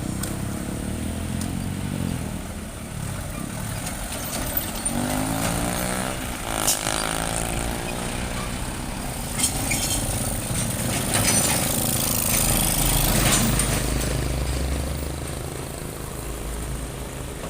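Road traffic: engines of heavy vehicles running past, one passing close about six to seven seconds in, over a steady low engine hum.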